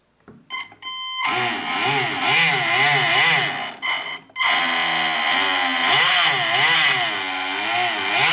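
Serpent 2 (FT007) RC boat's small brushed electric motor and propeller running out of the water, with the water sensor bridged by a wire. After a few clicks about a second in, its whine rises and falls again and again as the throttle is worked, with a short break around four seconds in.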